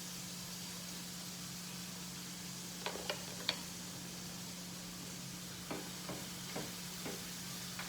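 Food frying in olive oil in a pan with a steady sizzle. A few sharp clicks and knocks of a utensil against the pan come in a cluster about three seconds in and again several times later on.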